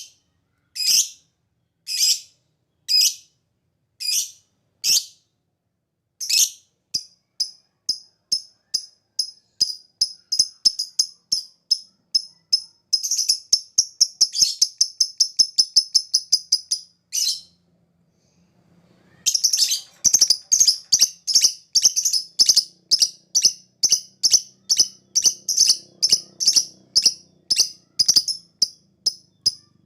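Lovebird song: sharp, high chirps about once a second speed up into a fast ticking run (ngetik), then merge into a long continuous chatter (ngekek). After a short pause near the middle, another long run of rapid notes follows.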